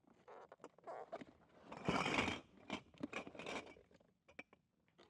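Objects being handled: irregular scrapes, rustles and short clicks, with a louder rustle about two seconds in.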